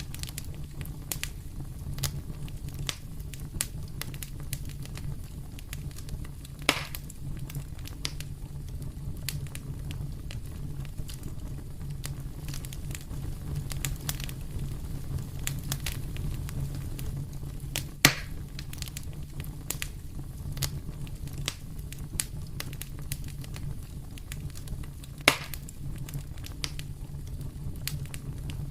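Wood fire crackling in a fireplace: a steady low rumble with frequent small crackles, and three louder pops spread through it.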